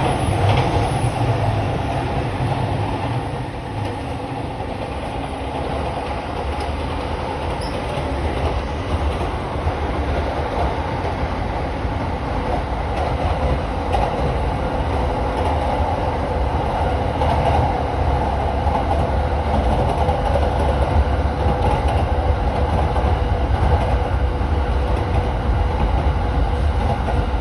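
Commuter train running on the rails, heard from inside the passenger car: a steady rumble of wheels and running gear with some clickety-clack over the rail joints, easing slightly a few seconds in and then gradually growing louder.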